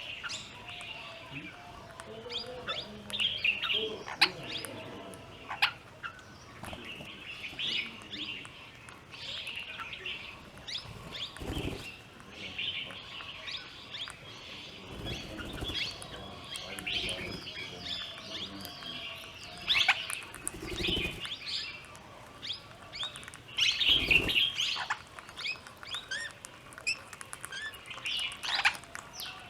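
Plum-headed parakeets and Himalayan bulbuls feeding together, giving a steady stream of high, quick chirps, broken three times by a short burst of wing flapping.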